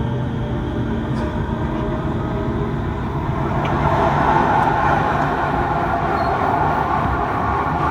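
Kawasaki C151 metro train running at speed, heard from inside the carriage: a steady rumble of wheels on rail, with a higher rushing band that grows louder about halfway through.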